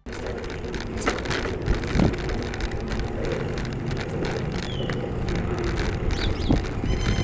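Wind buffeting the microphone and road noise during a bicycle ride, with a few knocks and short squeaks.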